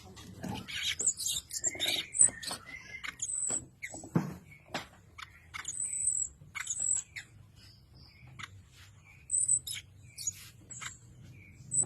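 Cucak kinoi birds chirping in a cage: a string of short, high chirps and calls with brief pauses between them.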